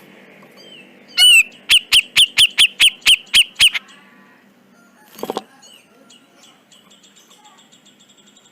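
Grey-cheeked bulbul (cucak jenggot) calling: a loud note about a second in, then a fast string of about nine sharp, downward-sweeping notes at about four a second. A short harsh note follows near the middle, and a faint rapid trill comes near the end.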